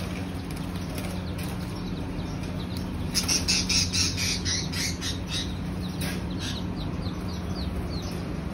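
Small caged pet birds give a quick run of shrill chirps and squawks for about three seconds, starting about three seconds in, as a hand chases them inside a wire cage. A steady low hum runs underneath.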